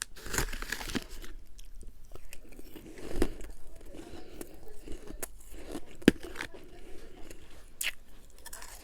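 A person biting and chewing refrozen freezer frost and humidifier ice, with irregular crunches and crackles and one sharp crack about six seconds in.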